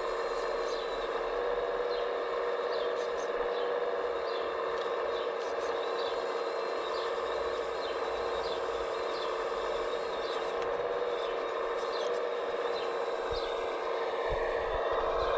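Steady whine of a radio-controlled model construction machine's electric motor and hydraulic pump running at an even pitch, with small birds chirping over it.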